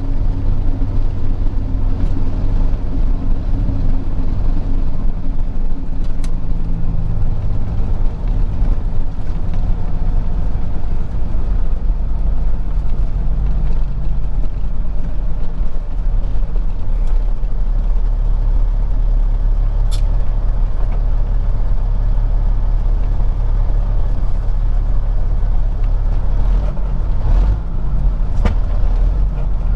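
Peterbilt 379 semi truck's diesel engine running steadily while driving, a deep low drone whose note shifts a little partway through, with a few short clicks.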